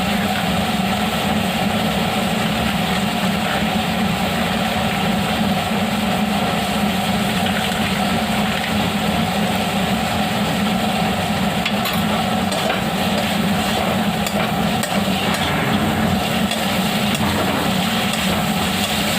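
Chicken mince with spices and ginger-garlic paste frying in oil in a kadai while it is stirred, over a steady low hum.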